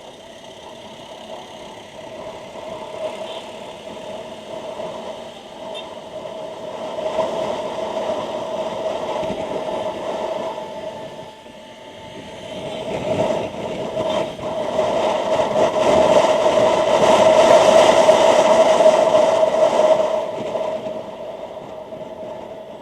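Motorcycle running with wind rush, the noise swelling twice, the second swell louder, over a steady engine tone, then easing off near the end.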